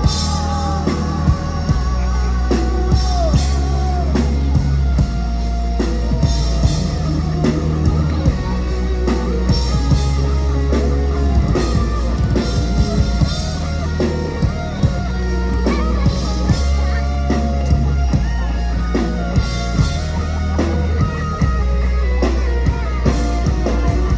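Rock band playing an instrumental break, with electric guitar over bass and drum kit in a steady beat.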